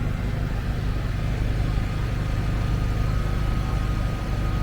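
Steady low hum of an engine running, even and unchanging throughout.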